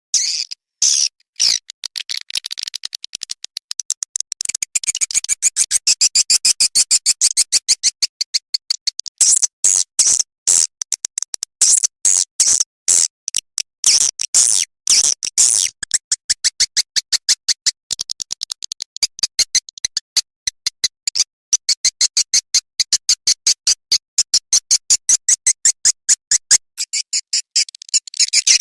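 Swiftlet lure call playing: fast runs of high-pitched chirps and clicks with short breaks between them. This is the looped, electronically produced swiftlet call played in nest houses to draw swiftlets in.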